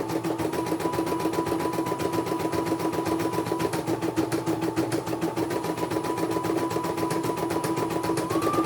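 Computerized embroidery machine stitching, with a rapid, even needle ticking over a steady motor hum and whine.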